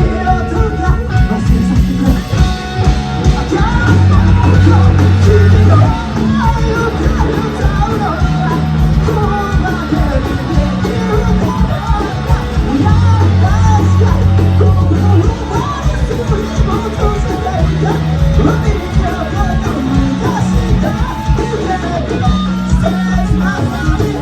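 Rock band playing live: electric guitars, bass and drums with a singer's voice over them.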